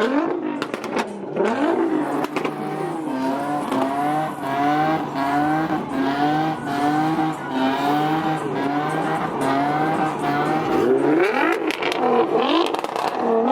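Car engine revving up and dropping back over and over in a quick, even rhythm, as at a street car meet burnout.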